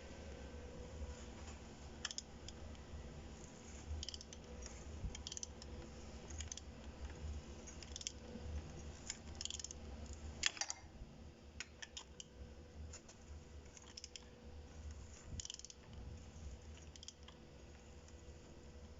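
Irregular light clicks and taps, a few a second at most, the sharpest about ten and a half seconds in, over a steady low rumble and a faint hum.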